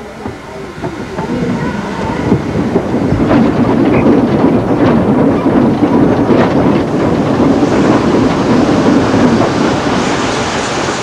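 Steam-hauled train on the move, its wheels clattering over the rail joints. The running noise builds up over the first few seconds, then holds steady.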